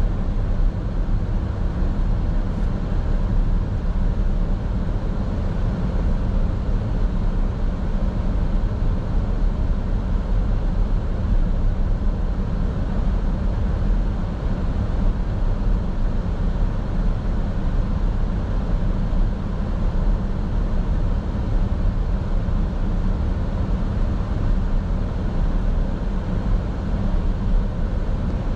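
Steady road and engine noise of a car being driven, heard from inside the car: an even, mostly low rumble that holds without change.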